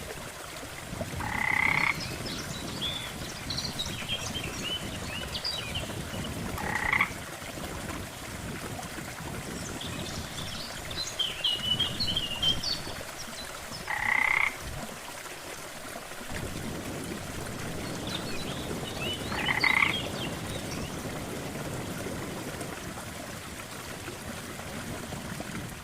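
Frogs croaking by a lake: a loud croak comes four times, several seconds apart, with higher chirping calls in between, over a steady wash of water.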